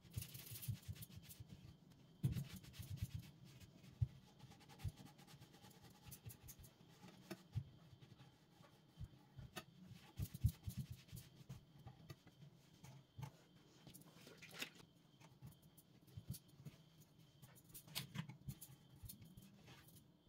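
Irregular small taps, clicks and light knocks with some rubbing, the sounds of household items being handled, wiped and set down during cleaning. The louder knocks come about two, four and ten seconds in.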